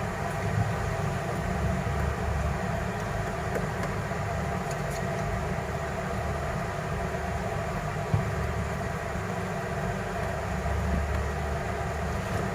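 A steady low mechanical rumble with hiss, pulsing slightly in the bass, and one short click about eight seconds in.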